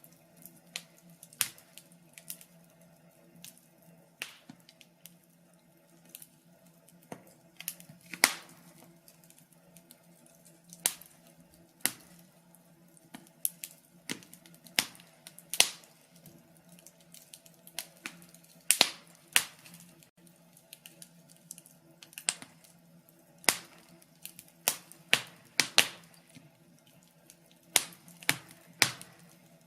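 Wood fire crackling, with irregular sharp pops and snaps, some much louder than others, over a faint steady low hum.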